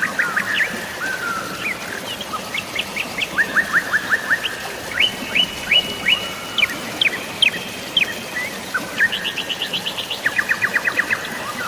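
Several songbirds chirping in quick repeated series of short notes, one after another, over a steady hiss of falling rain and flowing water.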